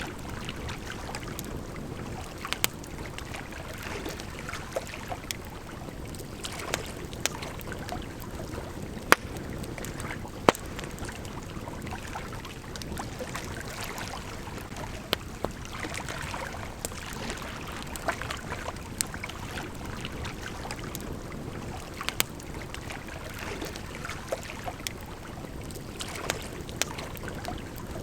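Wood campfire crackling, with irregular sharp pops and a few louder snaps, over the steady rush of a gently flowing river.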